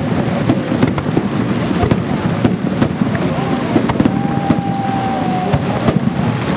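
Fireworks salute going off: a continuous dense barrage of bangs and crackling. A thin steady whistle sounds for about a second and a half, about four seconds in.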